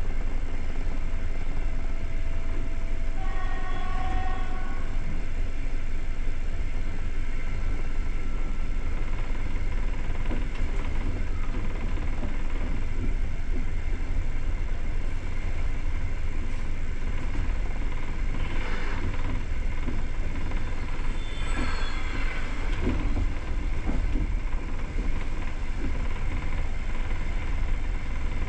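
Passenger train running at speed, a steady rumble of wheels on the rails heard from inside the carriage. About three seconds in, a short pitched tone sounds for a second or two.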